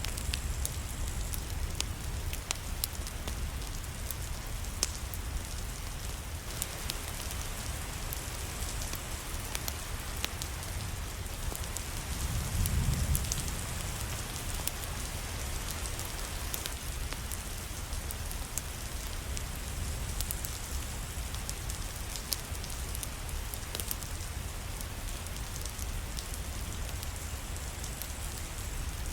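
Steady rain with scattered sharp ticks of drops or fire crackle. A low rumble swells briefly about halfway through.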